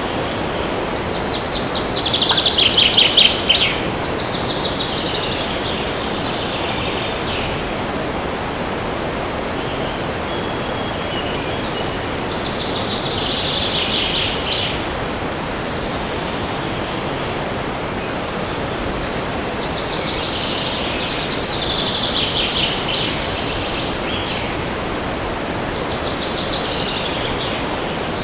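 Steady wind rushing through forest trees, with a songbird singing short, rapid trilled phrases several times, the loudest about two seconds in.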